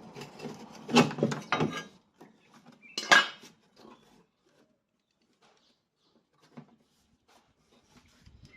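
Metal clanking and clatter of hand tools and car suspension parts being handled. A burst of sharp knocks comes in the first two seconds, then one loud clink about three seconds in, then a few faint ticks.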